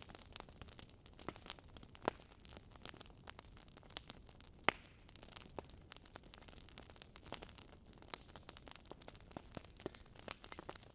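Wood fire crackling in a fireplace: irregular sharp pops and snaps over a faint steady hiss. A louder pop comes about two seconds in, and the loudest a little before the middle.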